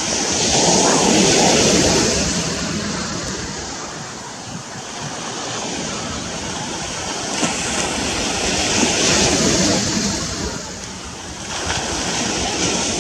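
Small ocean waves breaking and washing up the beach in the shallows, surging three times: about a second in, again around eight to ten seconds, and once more near the end.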